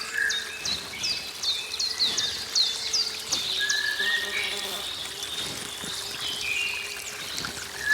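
Forest birdsong: one bird repeats short, high, falling chirps about three times a second for the first three seconds, among other birds' whistled notes, over a faint steady low drone.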